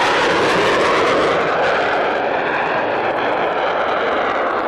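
Panavia Tornado F3 jet fighter making a fast low run past, its twin RB199 turbofan engines loud and steady, with a slowly sweeping, shifting tone as it passes.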